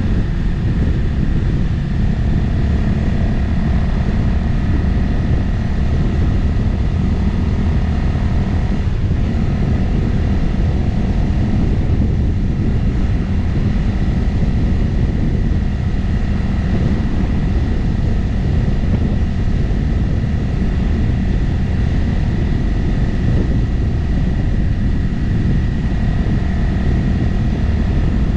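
Motorcycle cruising at a steady speed: its engine drones evenly under heavy wind buffeting on the microphone, which is the loudest part.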